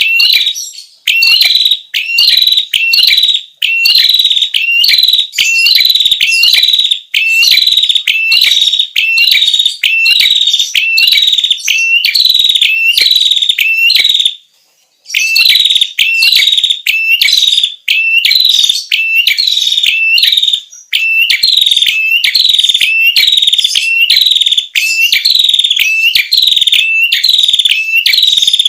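Recorded song of a prenjak kepala merah (red-headed prenjak), a loud, shrill, rapidly repeated series of hooked whistled notes, played as a bird-trapping lure call; it breaks off briefly about halfway through, then resumes.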